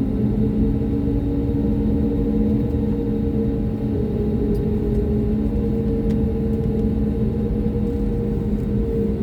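Airbus A320 jet engines and airflow heard inside the cabin: a steady, loud rumble with several constant humming tones over it.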